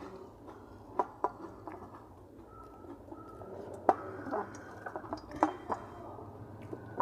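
Eating sounds: a person chewing a meal, with a scattered series of sharp little clicks and smacks, the loudest about four seconds in.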